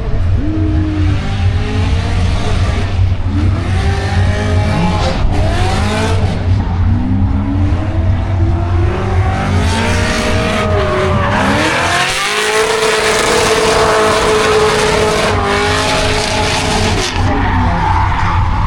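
Car engines revving up and down with tyres squealing as cars drift and slide. The revs are held steady for a few seconds in the second half.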